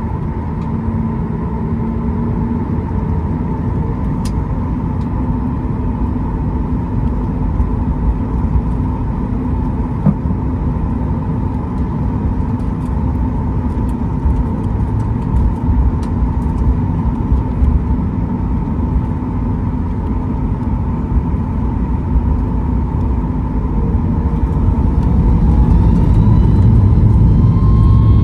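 Boeing 737-8 MAX's CFM LEAP-1B jet engines heard inside the cabin: a steady rumble with a steady whine. It grows louder over the last few seconds as rising whines come in.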